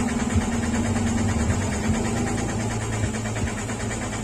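Steady low mechanical drone with an even hum, unbroken throughout, like a motor or engine running in the background.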